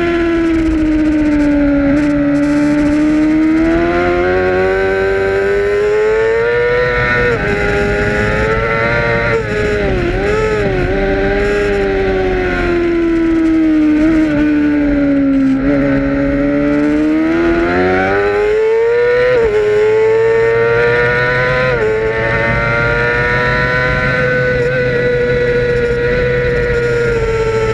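Racing motorcycle engine heard from the bike itself at race speed, its pitch sagging and climbing as the rider goes through the turns, with a quick dip and blip about ten seconds in and abrupt shifts around twenty seconds in, then held steady at high revs near the end. Wind rushes past the onboard camera throughout.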